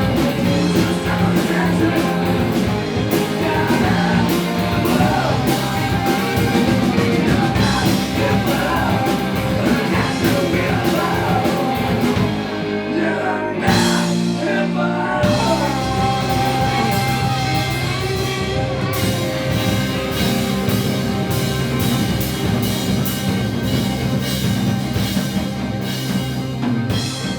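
Live rock band playing a song with a singer over drums, bass and guitar. About halfway through, the drums and cymbals drop out for a second or two under a held chord, then the full band comes back in.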